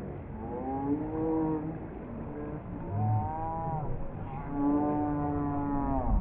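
Three long, drawn-out wordless vocal calls, each about a second long and arching up and down in pitch. These are whoops and hollers around a cliff jump into cold river water, over a steady rush of the river.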